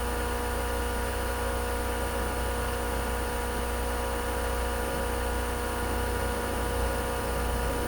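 A steady, unchanging machine hum made of several even tones over a low drone, with no tool strikes or knocks.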